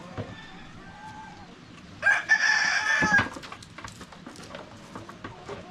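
A rooster crows once, about two seconds in, a single loud call lasting a little over a second, with fainter chicken calls before it.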